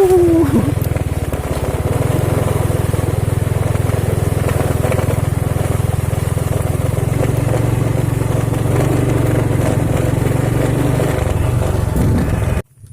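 Motorcycle engine running steadily under way, with rushing wind noise; the sound cuts off abruptly near the end.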